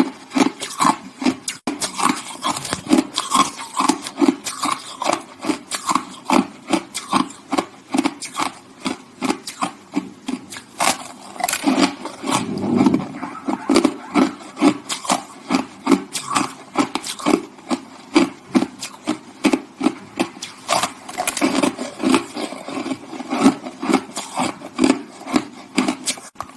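A person chewing hard, crusty shaved ice: a steady run of sharp crunches, two or three a second.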